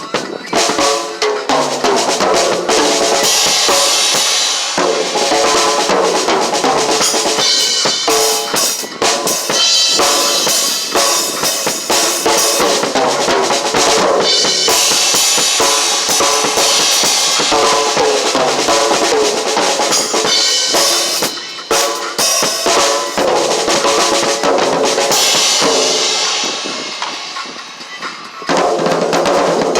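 Drum kit being played continuously in dense, loud drumming, with a short drop in level about three seconds before the end.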